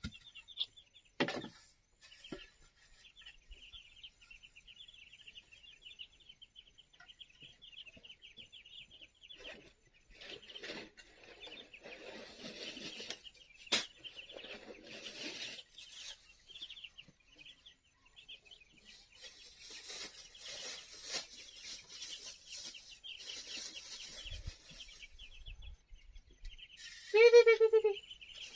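Young poultry peeping continuously in a high, rapid chatter, with occasional knocks and rustling. Near the end comes one loud call about a second long from an adult fowl.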